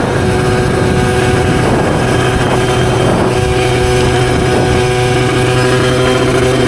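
Beta RR50's 50cc two-stroke engine with a Yasuni R2 exhaust, running at steady revs while ridden.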